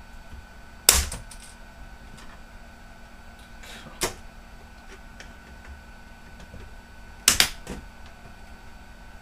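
Sharp plastic clicks and knocks from laptop parts being handled and pried apart during disassembly: a loud one about a second in, another near four seconds, and a quick double near the end, with faint ticks between.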